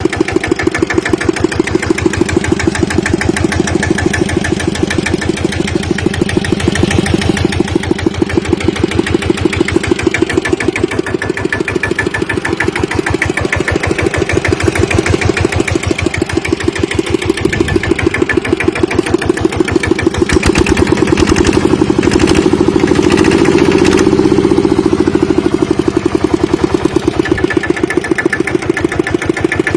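Kubota RT120 Plus single-cylinder diesel engine of a walking tractor running with an even, chugging beat of firing strokes. About two-thirds of the way through it speeds up and gets louder for a few seconds, then settles back to its slower beat.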